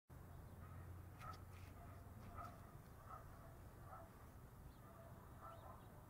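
Faint bird calls: short notes repeated roughly once a second, with a few thin higher chirps, over a low steady background rumble.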